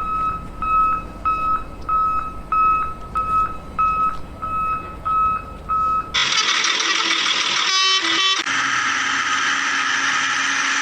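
Construction vehicle's reversing alarm beeping at one steady pitch, about ten short beeps a second and a half apart... over a low engine rumble. About six seconds in, the beeping stops and a louder, noisy vehicle sound with a steady low hum takes over.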